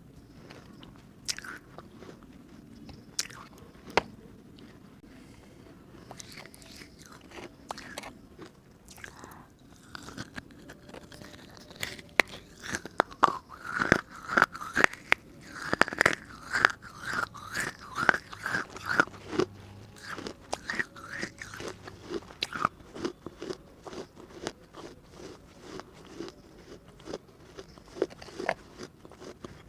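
Biting and crunching a hard baked-clay diya (earthen lamp) close to the microphone: sharp cracks and crunches, spaced out at first, then coming thick and loud for about ten seconds in the middle.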